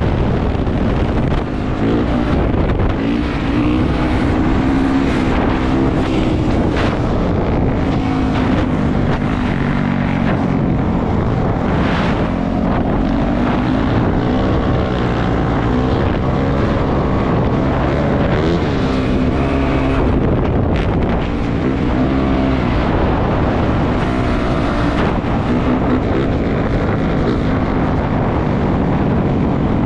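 Four-stroke 450 dirt bike engine running on a ride, its pitch rising and falling as the throttle opens and closes, with wind rushing over the microphone.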